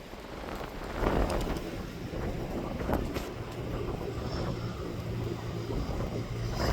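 Gusting wind buffeting the microphone, with a steady aircraft engine hum and faint whine beneath it from about the middle on.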